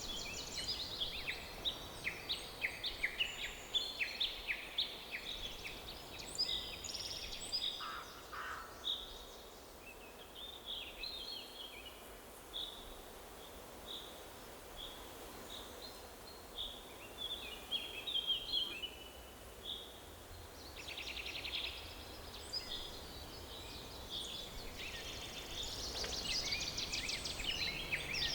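Several songbirds chirping and singing in overlapping short, falling notes, with bursts of rapid trills about two-thirds of the way in and near the end, over a faint steady background noise.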